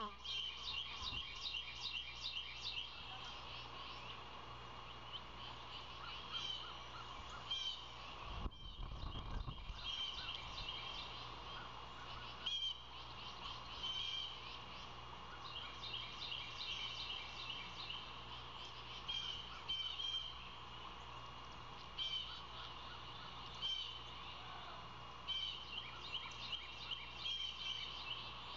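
Songbirds in the surrounding trees calling in repeated quick runs of high chirps, over a steady low hum; a brief low rumble about eight and a half seconds in.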